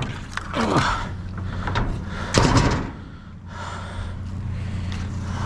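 A few knocks and bangs, the loudest about two and a half seconds in, over the steady low hum of an idling pickup truck engine.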